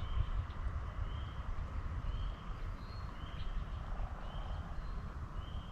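A songbird repeating a short, high note about once a second, over a steady low rumble.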